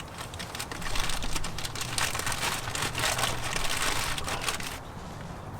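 Crinkling and rustling of a protective cover being wrapped over an alternator in an engine bay, a dense crackle that dies down near the end.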